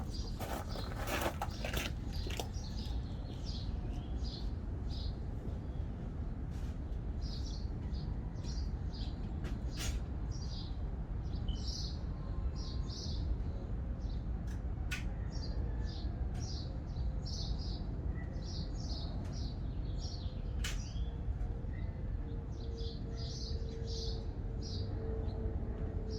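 Small birds chirping repeatedly over a steady low background rumble, with a few sharp clicks. A faint steady hum comes in over the last few seconds.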